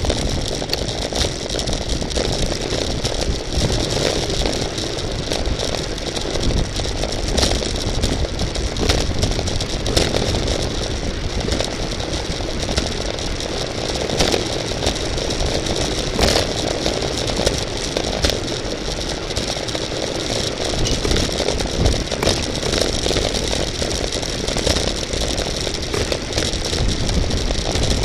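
Road bicycle riding at racing speed: wind rushing over the microphone, with tyre noise and frequent rattling clicks from the bike over the road surface.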